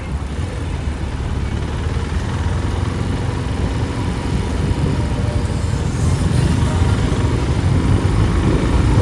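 Motorbike engine and street traffic heard while riding: a steady low rumble that grows a little louder about halfway through.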